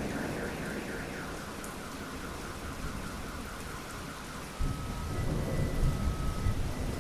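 Steady rain falling during a thunderstorm. A rumble of thunder is dying away at the start, and a new low rumble of thunder breaks in suddenly about four and a half seconds in.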